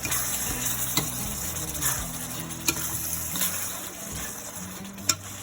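Blended chili paste sizzling as it fries in hot oil in a frying pan. The hiss eases off over the few seconds, and there are three sharp clicks.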